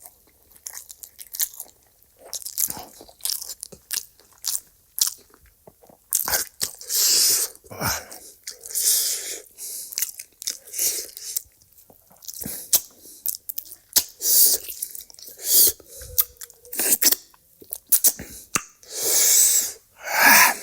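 Close-miked eating: chewing and crunching with sharp wet mouth clicks, broken by a few longer noisy stretches about six seconds in and again near the end.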